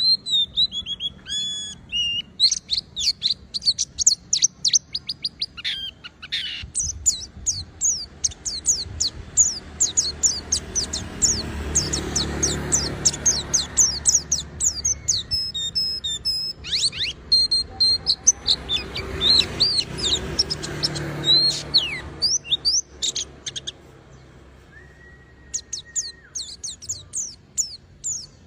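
White-eye (pleci) singing a fast, high twittering song of short chirps and sweeps, almost without a break, easing into a brief lull near the end before starting again.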